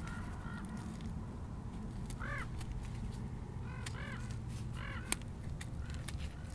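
A bird calling repeatedly outdoors, short arched calls in ones and twos. Faint clicks, and one sharp click about five seconds in, come from a small pointed tool scoring the pomegranate rind.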